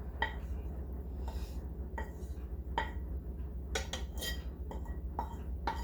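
A metal utensil clinking and scraping against cookware as cooked chicken and potato filling is moved around. About nine sharp, uneven clinks, each ringing briefly, over a low steady hum.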